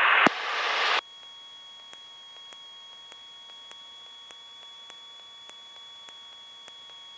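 Aircraft radio and intercom audio: the hiss of a radio transmission's squelch tail cuts off about a second in. It leaves a quiet intercom line with a steady high-pitched whine and faint, evenly spaced ticks, a little under two a second.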